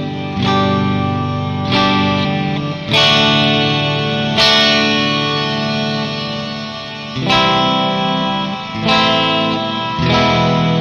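Jackson SL2 Pro Soloist electric guitar played through an amp on both pickups together: chords struck about seven times and left to ring between strikes.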